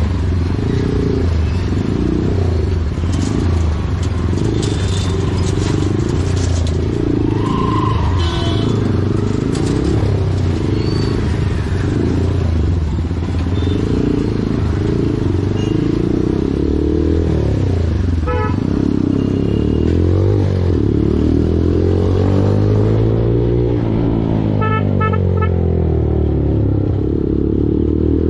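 Motorcycle engine running steadily while riding in traffic, its pitch rising and falling with the throttle, more so in the last several seconds. Short beeps sound about halfway through and again near the end.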